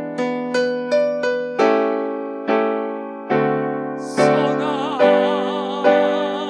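Keyboard playing a slow, gentle passage of chords and melody notes, each note struck and then fading. About four seconds in, a held line with a wavering vibrato joins above it.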